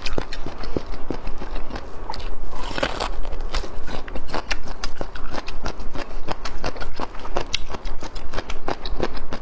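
Close-miked crunching and chewing of cooked bamboo shoot in chili oil: a quick, irregular run of crisp crunches.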